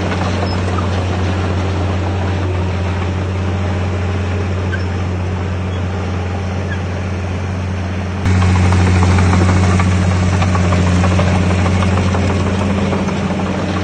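Diesel engine of heavy earthmoving equipment running steadily with a deep, even hum. About eight seconds in the sound abruptly gets louder and stays so.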